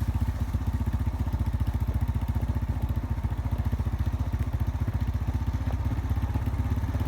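Vehicle engine running steadily at low speed, a rapid even pulsing.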